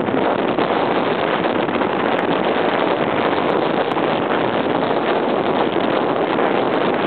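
Strong wind, over 10 m/s, blowing steadily across the microphone as a loud, even rush of noise.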